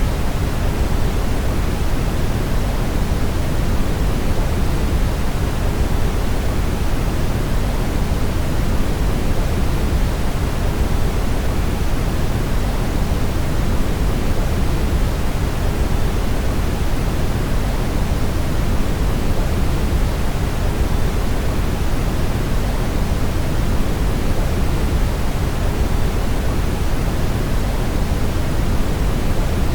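Steady brown noise: an even, unchanging hiss, deepest and strongest in the bass and fading toward the treble.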